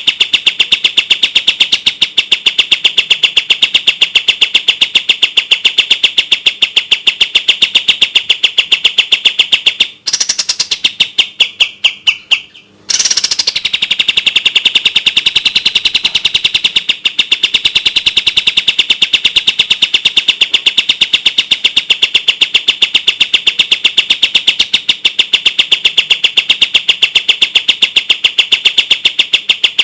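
Kapas tembak bird singing its fast, tightly spaced chattering song: a rapid, even run of high notes, many per second. About ten seconds in, the run stutters and breaks off for a couple of seconds, then picks up again.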